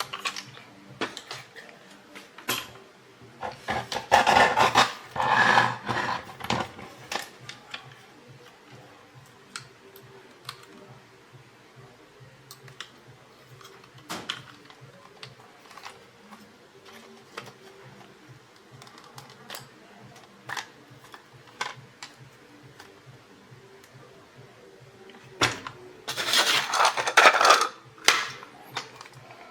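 Small clicks and clinks of toy parts and tools being handled, with two louder spells of rattling clatter, one about four seconds in and one near the end.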